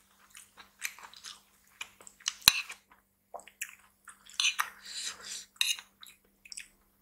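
Close-miked chewing and wet mouth sounds of someone eating rice with stewed vegetables, in many short irregular bits. A metal spoon scrapes and clinks against a ceramic bowl, with one sharp clink about two and a half seconds in.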